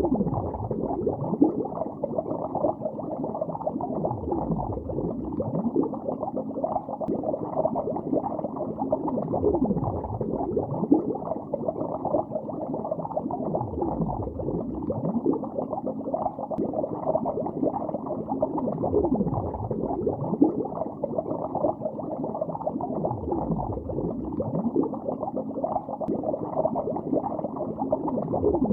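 Water bubbling underwater: a steady, dense stream of bubbles with many small rising and falling gurgles, muffled and low.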